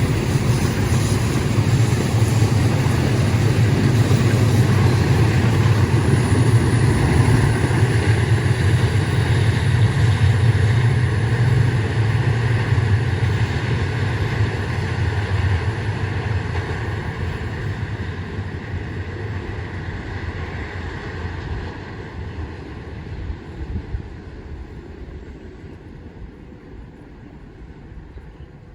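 A long train passing: a steady low rumble of wheels on the rails that fades away gradually over the second half as the train moves off.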